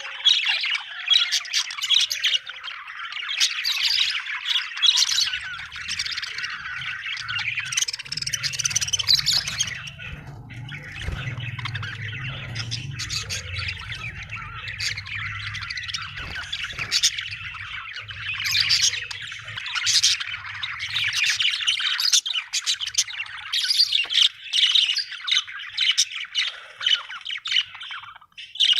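Budgerigars chattering continuously, a dense run of overlapping chirps, warbles and short squawks.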